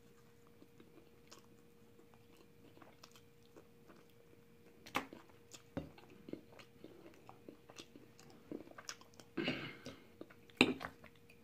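Close-up mouth sounds of someone chewing fried chicken: soft wet chewing with scattered small clicks. There are a few sharper crunches, about five seconds in and again near the end, and a short louder burst about nine and a half seconds in.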